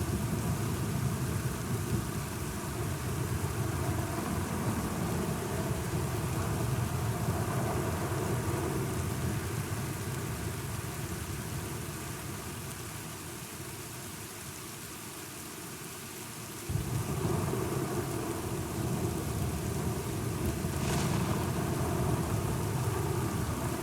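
Steady rain with a low, rolling thunder rumble beneath it. The rumble eases off a little past halfway, then comes back suddenly about seventeen seconds in.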